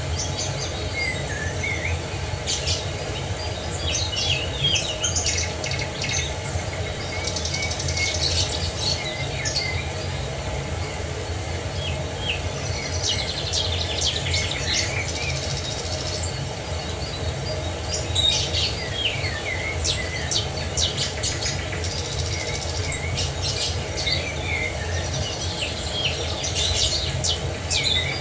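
Several wild birds chirping and singing in short, overlapping phrases over a steady low rush.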